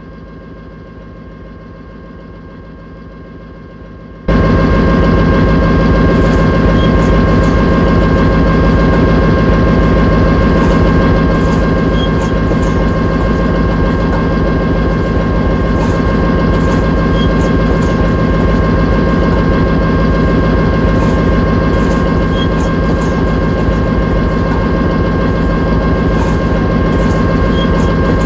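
Locomotive engine running steadily with a deep rumble and a steady whine, sharply louder from about four seconds in.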